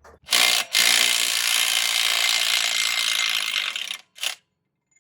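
Aerosol can of penetrating oil spraying: a short squirt, a steady spray of about three seconds, then another short squirt, soaking the wheel-bearing hub bolts.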